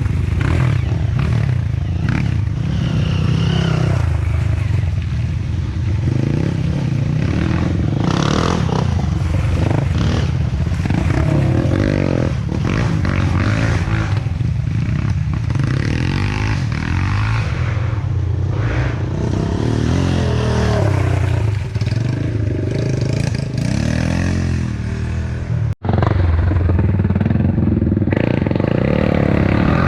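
Off-road trail motorcycle engines revving, the engine note rising and falling again and again. The sound cuts out sharply for a moment about 26 seconds in.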